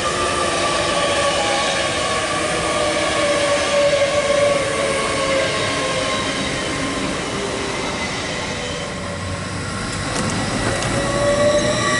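TransPennine Express Class 802 trains running through a station: steady rumble of wheels on rail, with a whine from the running gear that falls in pitch, then rises again near the end.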